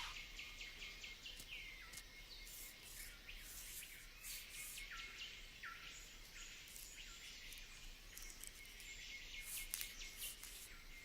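Faint rainforest ambience: a steady insect hiss with many short, downward-sliding bird calls repeating throughout.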